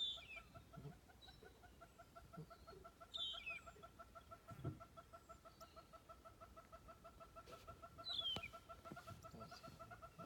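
Faint birdsong: a steady, rapid clucking call of many notes a second goes on throughout, and three short falling chirps from another bird come a few seconds apart.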